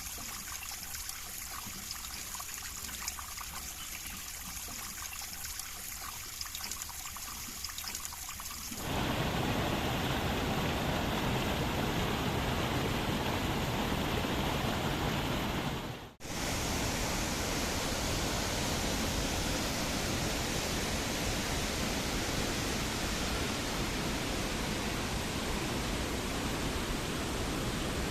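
River water flowing over rocks: a lighter trickling, babbling stream for about the first nine seconds, then a sudden change to a louder, steady rush of water. The rush drops out for a moment about two-thirds of the way through, then carries on.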